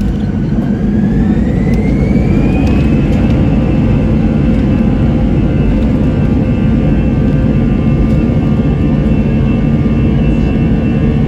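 Jet airliner's engines spooling up for takeoff: a whine rises in pitch over a heavy rumble, levels off about three seconds in, and then holds steady at takeoff power.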